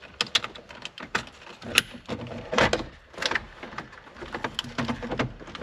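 Scattered clicks, taps and knocks of hands working on parts and wiring, with louder knocks about two, two and a half and three seconds in.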